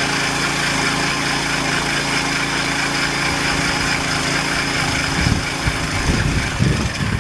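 Small gasoline engine running steadily, then running unevenly over the last couple of seconds and dying out at the end as it runs out of gas.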